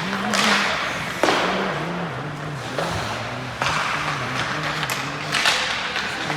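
Several sharp thumps and knocks of play during a youth team game, each trailing off in a large echoing venue, over steady background noise and a low tone that shifts pitch in steps.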